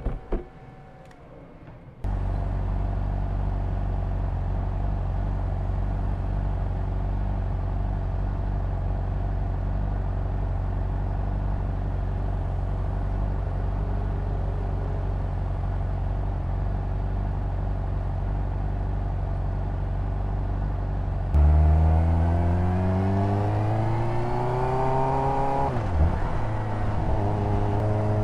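Honda CBR600RR's inline-four engine idling steadily, then pulling away about three quarters of the way in. The revs climb, drop sharply at a gear change, and settle into steady running at higher revs.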